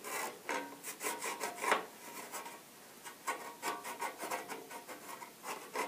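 Pencil scratching on galvanized sheet metal in short, irregular strokes, tracing around the edge of a plaster cornice profile.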